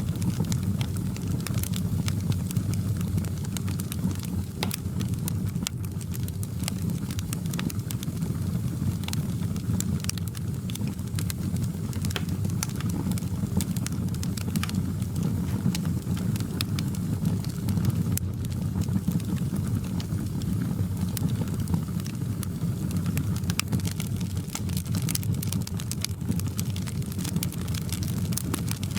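Fireplace crackling: a steady low rumble of burning logs with frequent sharp crackles and pops scattered through it.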